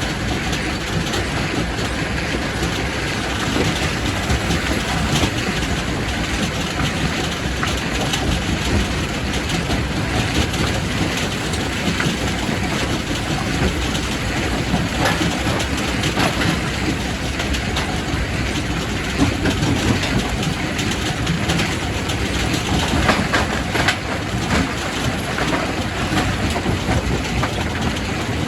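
Quarry primary rock crusher running, a steady heavy grinding rumble broken by frequent sharp cracks and knocks of rock being crushed.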